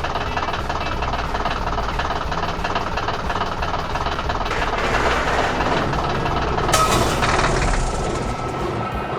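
A heavy vehicle running with a steady rumble and rattle, and a brief sharp noise about seven seconds in.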